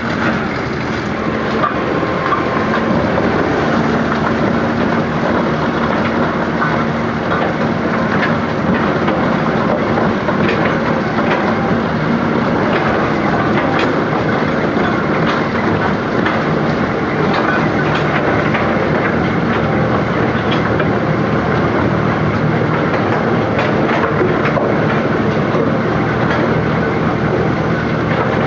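Rubble Master RM 60 mobile impact crusher running under load, crushing large chunks of concrete: a steady, loud machine din with frequent irregular knocks and rattles as the pieces are struck and broken.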